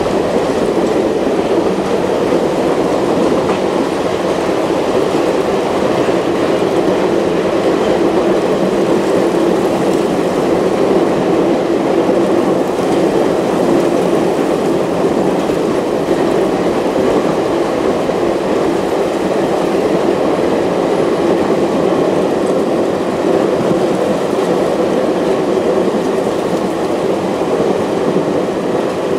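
A passenger train running at speed, heard from on board: the steady rolling noise of its wheels on the rails, unchanging throughout.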